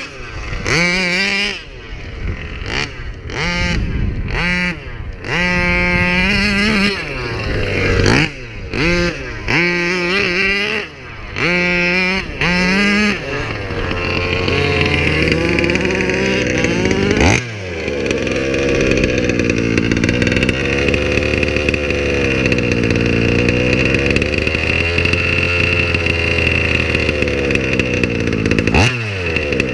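Small two-stroke engine of a King Motors Baja 5b RC buggy, a 38cc 30DN billet motor with an Olimat tuned pipe, blipped from idle about a dozen times in quick succession, each rev rising and falling straight back to idle. Roughly halfway through it settles into a continuous run whose pitch slowly rises and falls, with a brief drop about 17 seconds in and a rev-up near the end.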